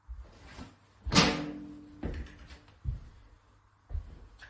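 Knocks and bangs of a sink unit being pulled out and dismantled, about five in all, the loudest about a second in with a short ringing after it.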